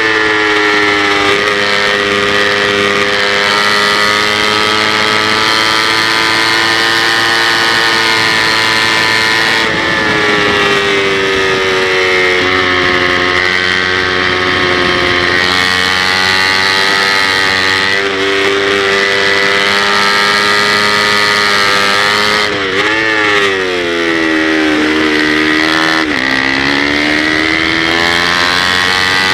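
Kawasaki Ninja 250 race motorcycle engine at high revs, heard on board at racing speed. Its note steps up and down through gear changes, dips deeply twice near the end as the bike slows for corners, then climbs back, over steady wind rush.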